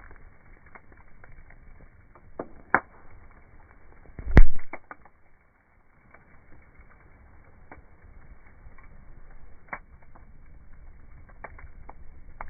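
Campfire burning, wood crackling with scattered sharp pops, and one heavy thump about four seconds in.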